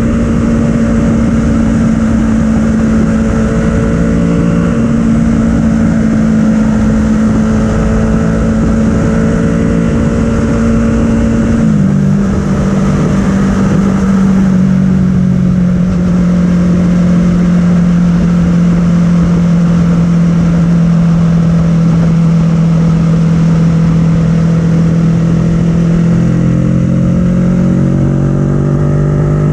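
Kawasaki Ninja 650 parallel-twin engine with an Arrow full-system exhaust, heard from on board at highway speed over wind noise. It holds a steady drone in fifth gear, shifts up into sixth about twelve seconds in with a drop in pitch, settles lower, and begins to rise again near the end as it accelerates.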